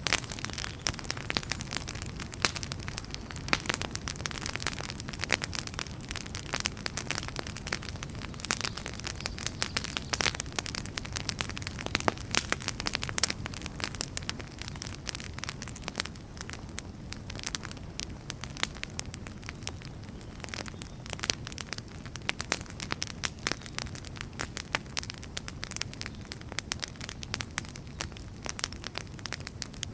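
Wood fire crackling and popping: many irregular sharp snaps over a steady low rumble of burning logs.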